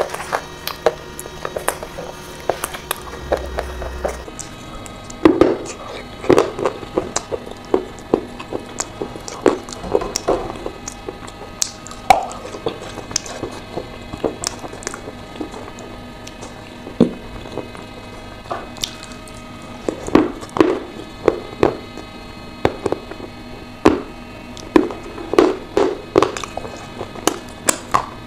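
Close-miked ASMR mouth sounds of wet, sticky chewing and smacking on a soft, creamy paste. They come in irregular runs of a few quick smacks, with short pauses between.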